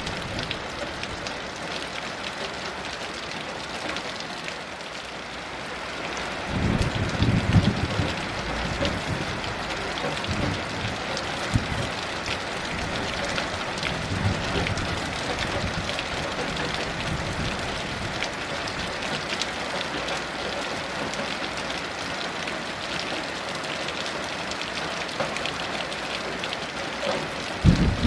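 Heavy rain falling steadily. About six seconds in, a low rumble of distant thunder rolls in and fades away over several seconds, and another rumble begins just before the end.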